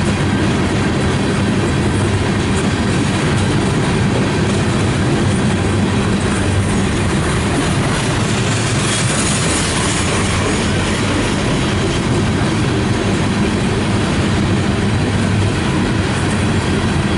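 Freight cars of a CSX train rolling steadily past at close range: a loud, continuous rumble with the clickety-clack of wheels over the rail.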